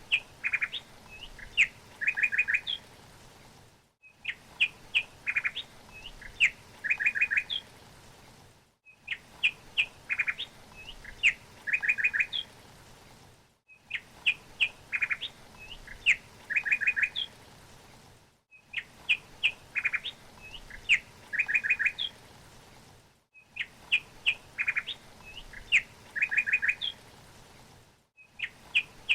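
Bird chirps and quick trills in a short recording looped over and over: the same phrase of calls repeats about every five seconds, with a brief gap of silence between repeats, over a faint steady hiss.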